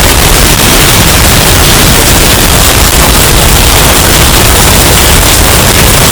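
Hurricane wind sound effect, bass-boosted and overdriven into heavy clipping distortion. It is a constant, very loud wall of noise that runs without a break.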